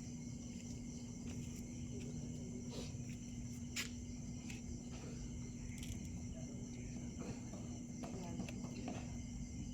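Crickets trilling steadily in a high band, over a steady low hum, with scattered faint clicks.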